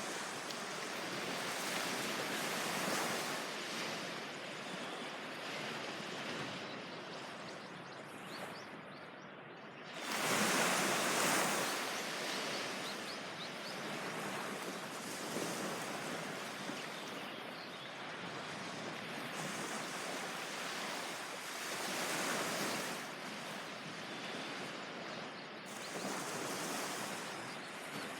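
Surf breaking on a beach: a steady wash of waves that swells and falls back every few seconds, with the biggest wave breaking about ten seconds in.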